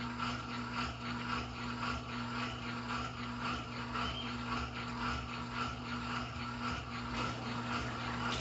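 Brastemp Intelligent 7 kg washing machine running mid-cycle: a steady motor hum with a rhythmic swishing of about two to three strokes a second.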